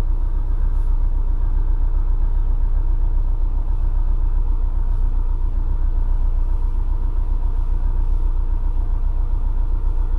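A vehicle engine running steadily, a loud low rumble with an even pulsing beat, heard close.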